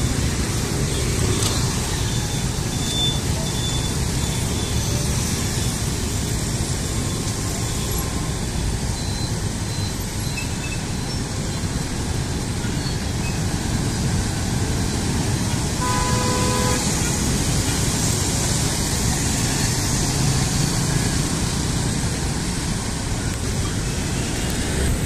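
Busy street traffic, motor vehicles running and passing in a steady rumble, with one short horn honk about sixteen seconds in.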